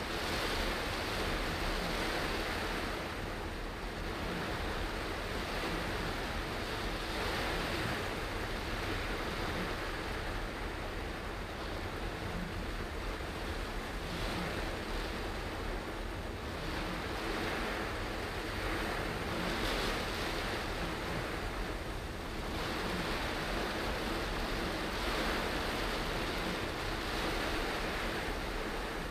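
Heavy rain on the car and tyres hissing on the wet road, heard from inside the car; the noise swells and eases every three seconds or so.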